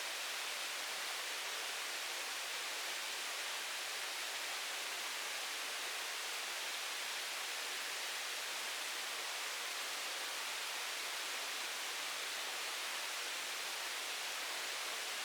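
Steady, even hiss with nothing standing out from it and no change in level.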